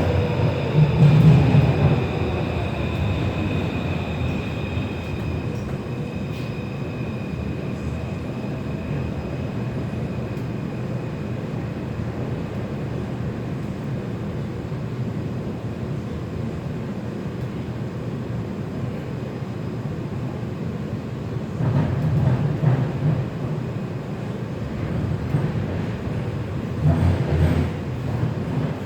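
Taipei Metro C341 subway train heard from inside the car while running, a steady rumble of wheels on rail. A high whine fades out over the first several seconds, and a few heavier low thumps come about a second in, around two-thirds of the way through and near the end.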